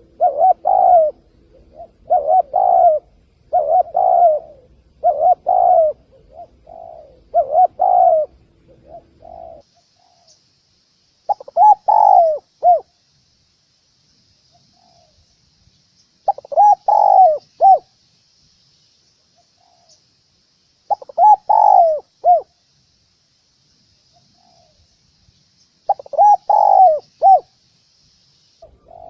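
Spotted dove cooing. For the first ten seconds the coo phrases come in quick succession about once a second over a low hum; then the recording changes and a full multi-note coo comes about every four to five seconds.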